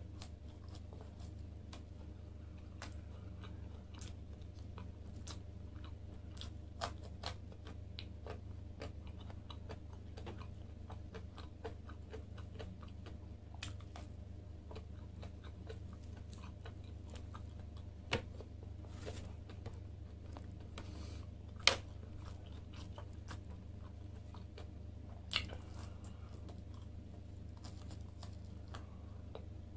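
Close-up chewing and biting of grilled lamb chops eaten by hand: a run of small wet mouth clicks and smacks, with three sharper, louder clicks in the second half, over a steady low hum.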